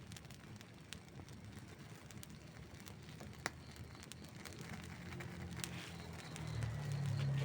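Wood campfire crackling, with scattered small pops and one sharper pop about three and a half seconds in. A low rumble swells near the end.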